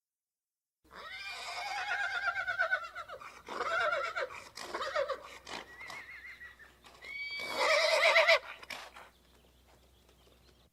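Horse whinnying: a series of neighs with a quavering, shaking pitch, starting about a second in, with the loudest call near the end.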